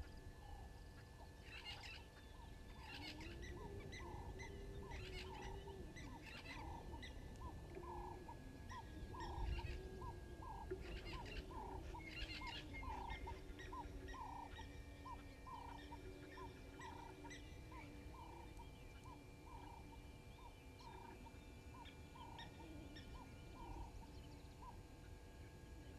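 Wild birds calling in the bush: one repeats a short note about twice a second for most of the stretch, with other birds chirping over it in the first half.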